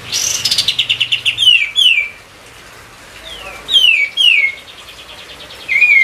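A kapas tembak songbird singing in an agitated, excited way. It opens with a fast rattling trill that ends in two sharp falling notes, then gives three falling whistled notes, and one short note near the end.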